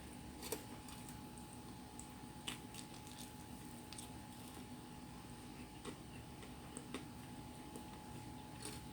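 Quiet chewing of pizza: scattered soft mouth clicks and smacks, a few seconds apart, over a faint steady hum.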